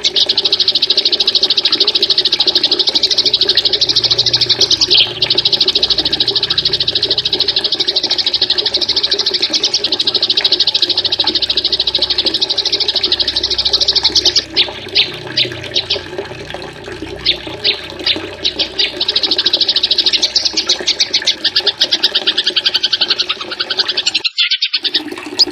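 A small songbird's rapid trill: a fast, even train of sharp high notes running almost unbroken. About halfway through it breaks into separate short bursts, then runs dense again before cutting off abruptly near the end.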